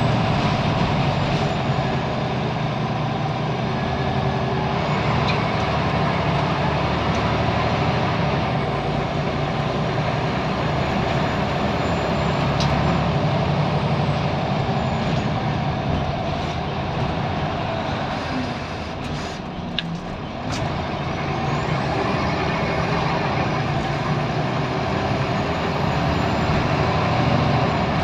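Scania L94UB bus engine running steadily as the bus drives, easing off briefly about two-thirds through with a short hiss of air.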